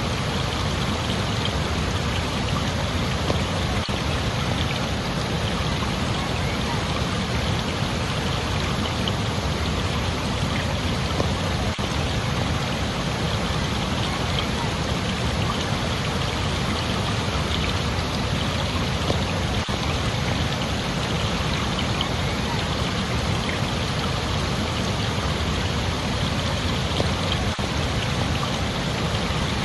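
Water rushing steadily and evenly, a constant splashing hiss with no change throughout.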